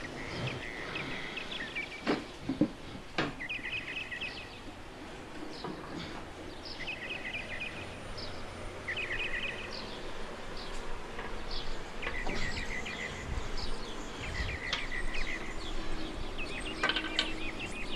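Short pulsed chirps repeating every second or two. Two sharp metallic knocks come about two and three seconds in.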